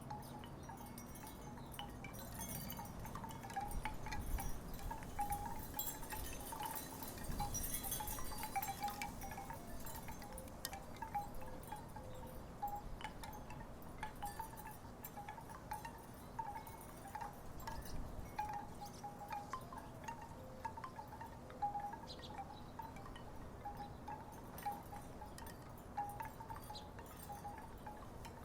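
Wooden tiki wind chimes knocking together in the wind, making a continual irregular patter of short hollow tones, mostly on one pitch with a few lower notes. Wind gusts rumble on the microphone, strongest in the first third.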